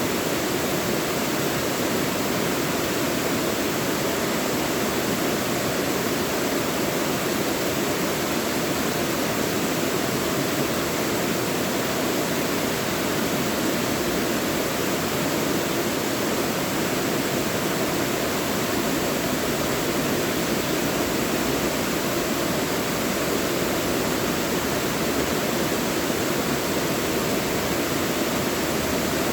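Mountain stream rushing over rocks in a valley, a steady, even rush of water with no breaks.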